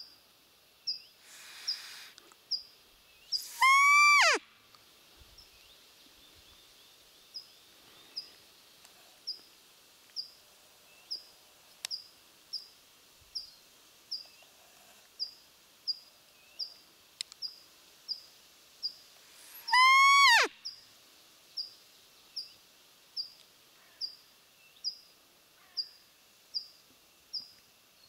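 A small bird repeats a single high chirp a little more than once a second. Twice, about sixteen seconds apart, a much louder drawn-out call of under a second slides steeply down in pitch.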